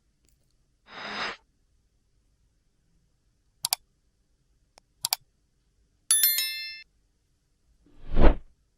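Separate workshop handling sounds against silence: a short scrape, two quick double clicks, a bright metallic ring that dies away within a second, and a low thump near the end, which is the loudest.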